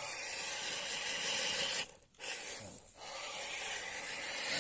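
A 1:10 scale RC crawler's electric motor and gears running while its tyres scrabble and scrape over the ground. It goes in spurts, stopping briefly twice about two to three seconds in.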